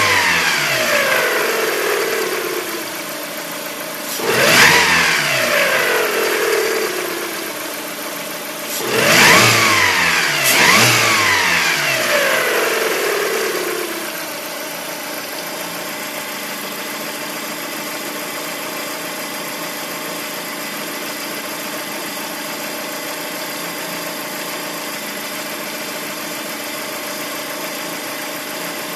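Lada Priora's four-cylinder petrol engine revved in short blips, one about four seconds in and two close together around nine and ten seconds, each falling back, then idling steadily for the second half. The owner hears a strange knock, best just after the revs, and does not know its cause.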